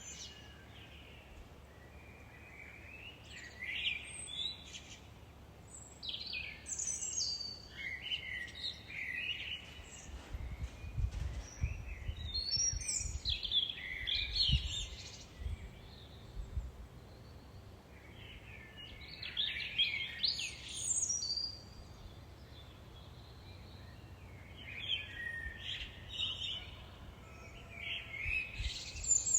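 Songbird singing in repeated rapid warbling phrases of a few seconds each, with short pauses between, over a low rumble that has a few thumps about a third of the way in.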